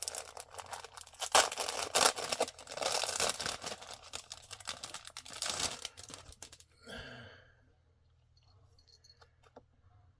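Paper mailer packaging being torn and crinkled open by hand: a dense run of ripping and crinkling for about seven seconds, then only a few faint handling clicks.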